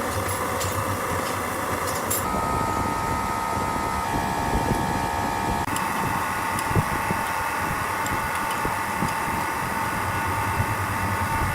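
Machinery running steadily, with a whining tone that shifts in pitch about two seconds in and again about six seconds in.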